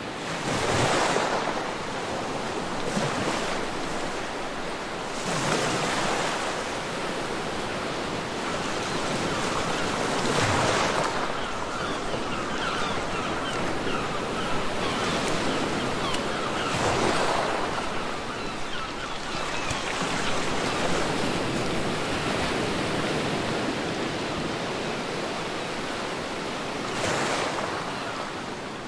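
Ocean surf washing onto a beach: a steady rush of water, with a wave swelling and breaking every few seconds.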